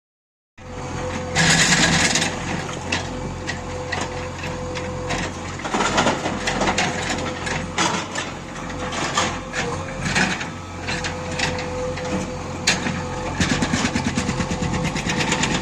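JCB backhoe loader at work on stone: the diesel engine runs with a steady hum under irregular knocks and clatter of rock. Near the end comes a fast, even rapping, typical of a hydraulic rock breaker hammering. The sound starts abruptly about half a second in.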